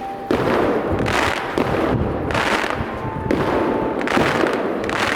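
Aerial fireworks shells bursting in quick succession, a bang about once a second, each followed by crackling and a rolling echo.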